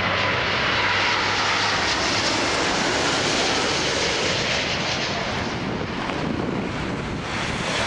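Boeing 777-300 twin-jet airliner on short final approach just before touchdown, its engines making a steady jet roar.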